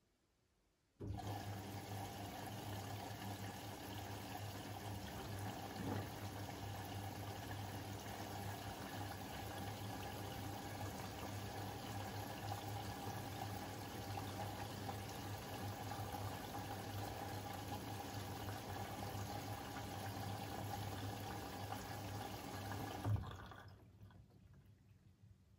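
Siemens iQ700 washing machine taking in water: the inlet valve opens suddenly about a second in and water runs steadily into the machine with a low hum, until the valve shuts with a short clack a couple of seconds before the end.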